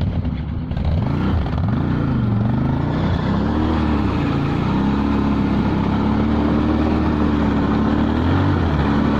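Off-road vehicle engine revving, its pitch rising and falling a few times, then holding a steady, higher note.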